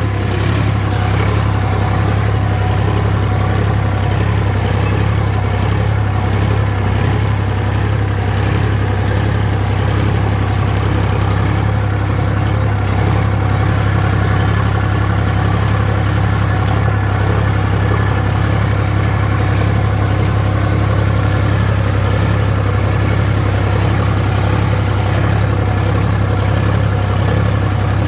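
Sonalika DI 35 tractor's diesel engine running steadily with an even, low drone.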